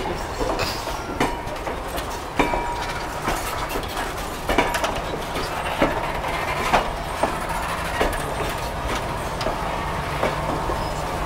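Riveted steel passenger coaches rolling slowly past at close range: a steady low rumble with irregular sharp clicks as the wheels cross the track.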